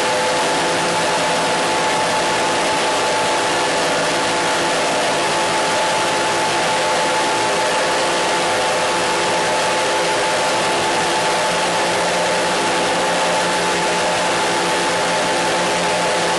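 Steady radio static: an even, loud hiss with several faint steady tones held beneath it, unchanging throughout.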